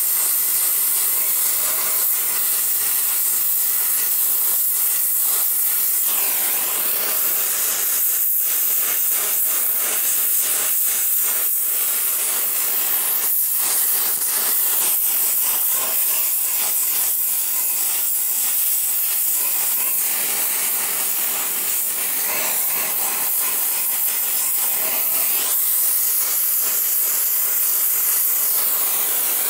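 Gas torch flame hissing steadily while heating a rusty, seized stud in a cast-iron exhaust manifold to free it.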